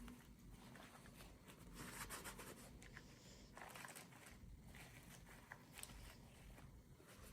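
Near silence, with faint rustling and a few light clicks from small items being handled.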